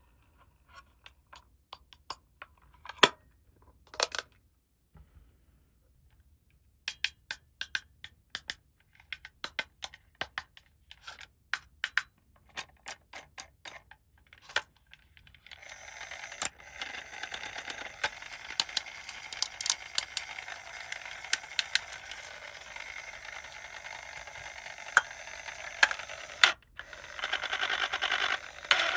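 Small plastic toy play-set pieces being handled, with scattered sharp clicks and taps. About halfway in, a continuous rustling with more clicks takes over.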